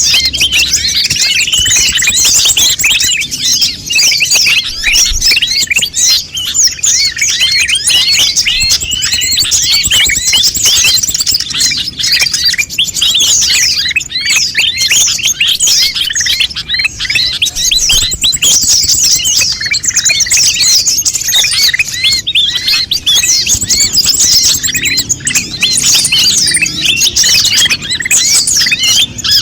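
Konin birds chattering in a fast, dense, unbroken stream of high, quick chirps and short sweeping notes, many overlapping.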